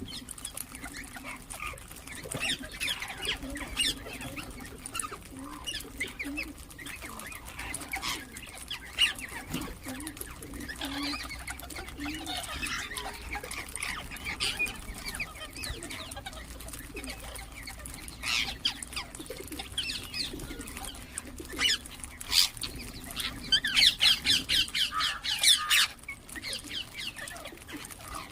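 Ringneck parrots chirping and calling in short scattered calls, with a rapid run of calls near the end.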